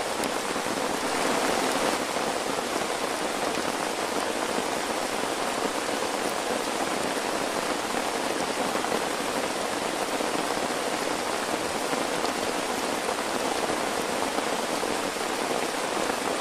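Steady heavy rain: a dense, even hiss of falling drops, swelling slightly about a second in.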